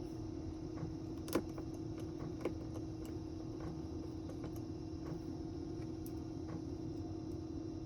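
Small scattered clicks and taps of hand tools and phone parts being handled on a bench, over a steady low hum; two sharper clicks stand out, one just over a second in and another about a second later.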